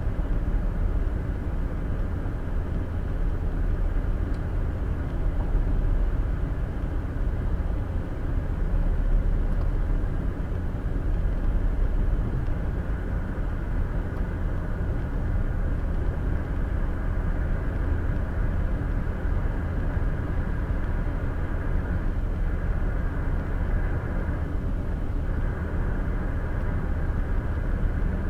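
Steady road and tyre noise with engine hum from a car driving at highway speed, heard from inside the cabin.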